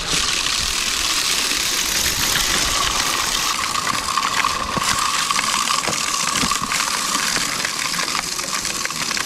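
Snowblower's small gasoline engine running steadily.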